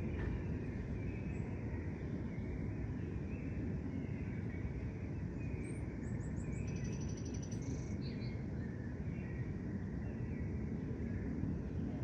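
Park ambience: several birds calling with short chirps over a steady low background rumble, with a quick high trill of rapidly repeated notes about halfway through.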